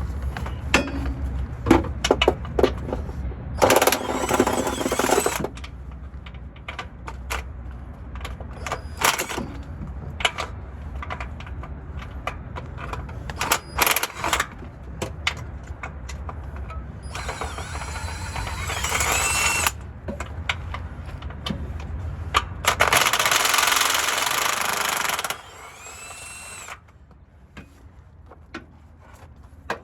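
Power tool, most likely an impact wrench, running in three bursts of about two seconds each on bolts during transmission removal, with scattered knocks and clanks of metal tools and parts in between.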